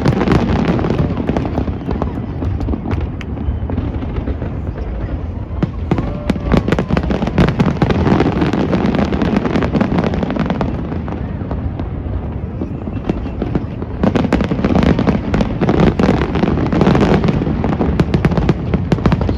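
Large aerial fireworks display: a continuous barrage of shell bursts and rapid crackling over a steady deep rumble, densest in two long flurries.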